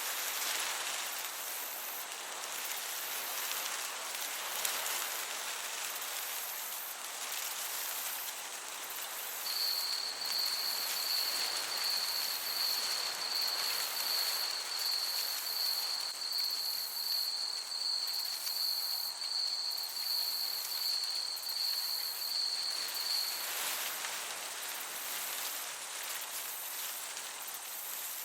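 Meadow ambience: a steady hiss of gentle breeze, with a cricket chirping in an even, rapid pulse. The chirping starts about ten seconds in and stops about five seconds before the end.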